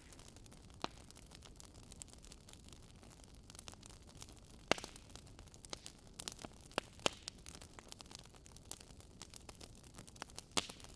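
Wood campfire crackling: irregular sharp pops and snaps over a faint hiss, the loudest pop a little before the middle and a quick run of pops just after it.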